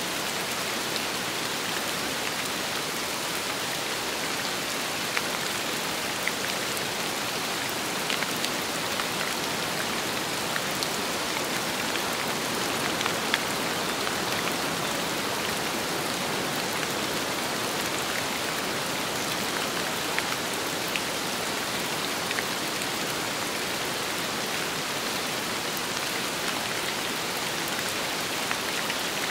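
Steady rain falling on a surface: a dense, even hiss with scattered sharper drop ticks.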